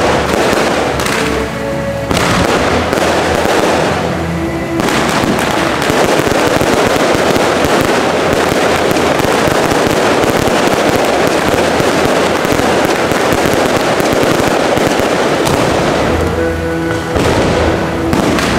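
Aerial fireworks show: separate shell bursts at first, then from about five seconds in a dense, continuous barrage of bangs and crackle that thins out a couple of seconds before the end.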